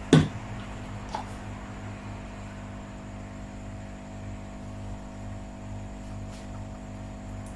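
Steady electrical hum from the workbench, with one sharp knock just after the start and a faint click about a second in.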